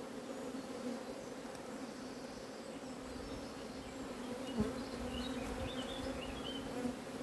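Honeybee colony buzzing steadily around an open hive during inspection, a continuous hum of many bees. A single soft low thump about four and a half seconds in.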